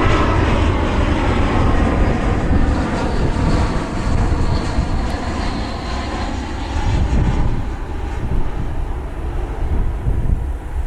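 Jet airliner engines passing close by with a loud, steady rumble that slowly eases off.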